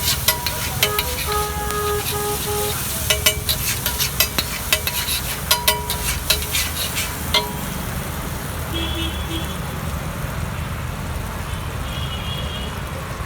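Metal spatula clanging quickly against a hot iron griddle while egg sizzles on it. The clanging stops about halfway through, leaving a steady low rumble of street traffic.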